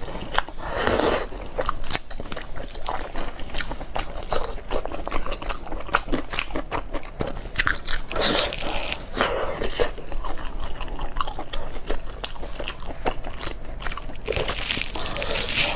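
A person chewing and biting meat close to the microphone, with many quick wet clicks of mouth and teeth and a few longer slurping or crunching stretches.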